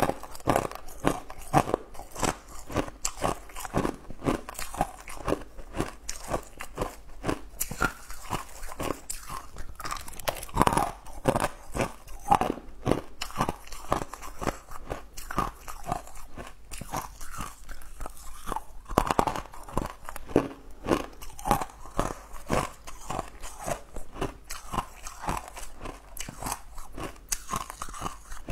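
Close-miked crunching and chewing of blue sugar-coated jelly candy cubes, several crisp crunches a second.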